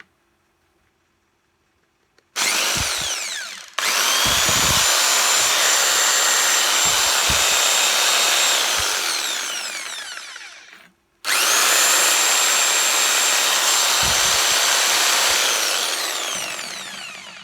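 Skil 4900 reciprocating saw's electric motor test-run after repair of its jammed rotor. A brief burst comes first, then two runs of several seconds, each spinning down when the trigger is released. The motor spins up and runs freely rather than only humming.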